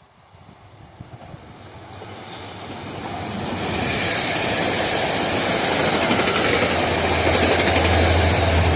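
A train approaching, its noise building steadily over about four seconds into a loud, even rush with a high steady whine, and a low rumble strengthening near the end as it nears and passes.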